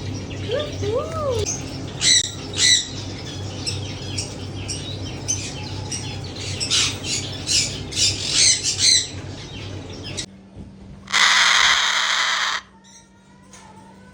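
Many caged parrots and other birds squawking and chirping in quick, overlapping short calls over a steady low hum. After about ten seconds the sound changes abruptly: one loud harsh parrot screech lasts about a second and a half, followed by a few faint falling whistles.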